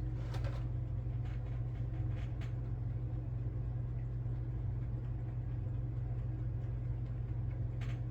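Steady low background hum, with a few faint light clicks from small parts or a brush being handled.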